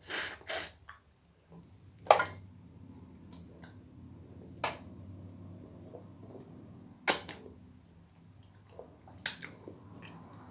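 Sharp, wet smacking clicks of someone eating soft, sticky starch with okra soup: two close together at the start, then one every two seconds or so.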